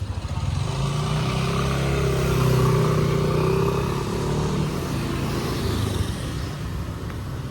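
A motor vehicle's engine running, swelling to its loudest midway and then easing off, as when it passes close by.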